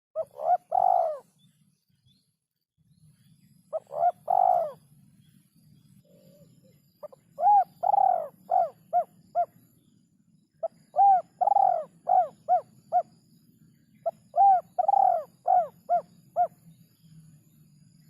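A derkuku dove cooing in five phrases: the first two are short groups of two or three coos, the later ones a longer coo followed by a run of four or five quicker, shorter coos. A faint low hum runs underneath.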